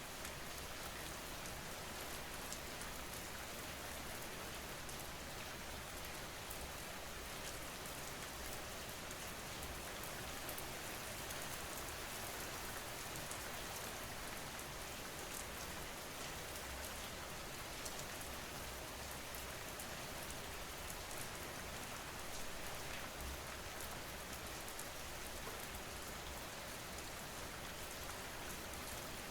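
Steady rainfall, an even hiss of rain with scattered drop patter.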